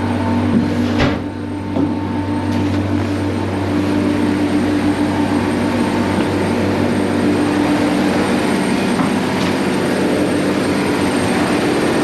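A ship's onboard machinery running with a loud, steady drone and low hum, with a single sharp knock about a second in.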